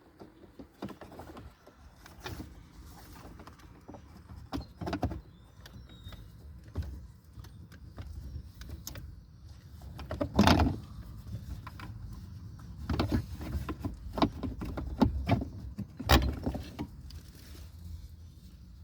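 Scattered clicks, taps and knocks of plastic parts and tools being handled while an HVAC blend-door actuator is fitted behind a pickup's dashboard, with two louder knocks about ten and sixteen seconds in.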